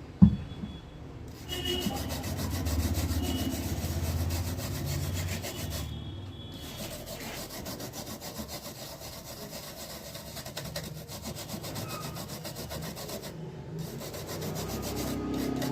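Rapid back-and-forth rubbing strokes as the burnt area of a laptop motherboard is scrubbed clean with isopropyl alcohol, with a short pause partway through. A sharp knock comes right at the start.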